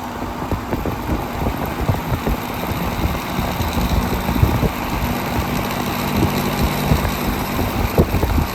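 Air-conditioner condensing unit with a smaller condenser fan running: steady fan rush and rumble over a low, even hum. The airflow is surprisingly not as powerful as the unit with the big fan.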